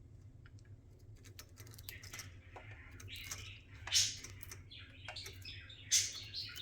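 Budgerigar chirping and chattering in short calls, loudest about four and six seconds in, with faint scattered clicks before the calls start.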